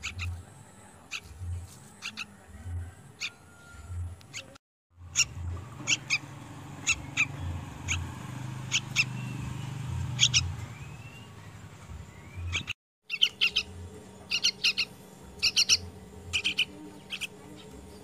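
A fledgling songbird chirping: short, sharp, high calls repeated in quick runs, with the sound cutting out briefly twice.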